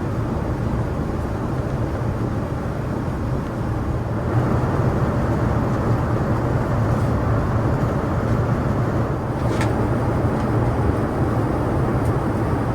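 Steady engine and airflow noise heard inside the cabin of a Boeing 787-9 airliner, a continuous rush over a low hum, growing slightly louder about four seconds in.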